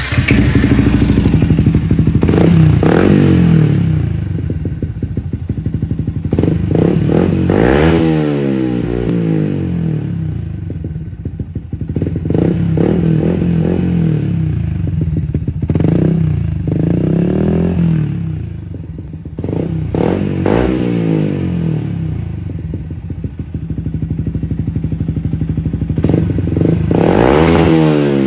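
Yamaha MT-125's single-cylinder four-stroke engine idling through an Arrow exhaust with the dB killer removed, blipped on the throttle several times so the note rises and falls back to idle.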